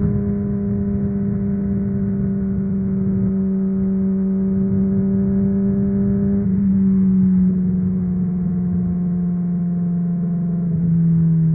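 Honda CBR600RR inline-four motorcycle engine with a MIVV Suono exhaust, running at steady high revs under way, its note sinking slowly in pitch with a slight change about six and a half seconds in.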